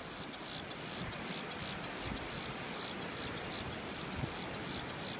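Insects chirring in a steady pulsing high buzz, several pulses a second, over a steady background hiss.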